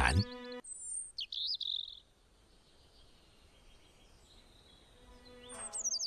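Small birds chirping: a high call and a short trill about a second in, then a quick run of falling chirps near the end.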